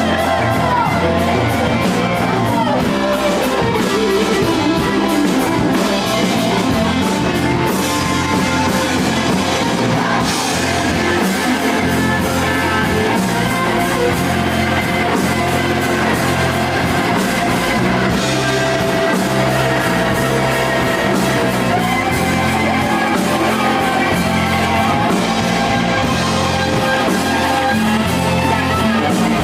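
Rock band playing a song: electric guitar, bass and drum kit.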